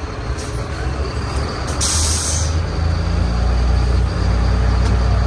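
Heavy tractor engine running with a deep steady note that grows louder from about two and a half seconds in, with a short, sharp hiss of air about two seconds in.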